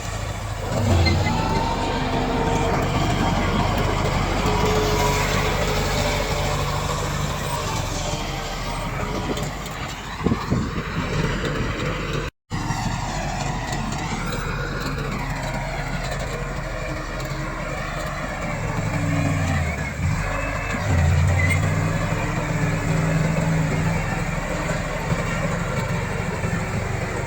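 Komatsu D68 bulldozer's diesel engine working under load, its pitch dipping and rising again near the end. The sound cuts out for an instant about twelve seconds in.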